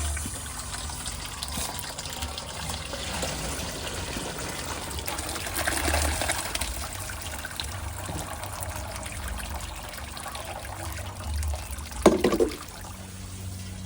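Water pouring and trickling as boiled white rice is strained, the cooking water draining off, swelling about halfway through. A single knock near the end.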